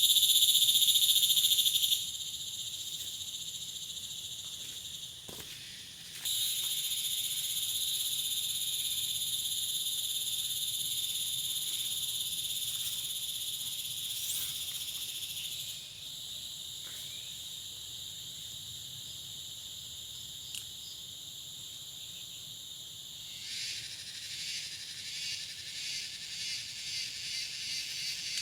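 Chorus of night insects with a steady high-pitched trill that steps louder and softer a few times. Near the end a rhythmic pulsing call sets in and speeds up.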